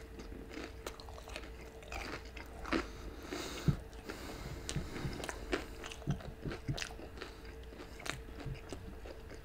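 Close-miked chewing of a crispy breaded boneless chicken wing in garlic parmesan, with scattered crunching bites and mouth clicks throughout, over a faint steady hum.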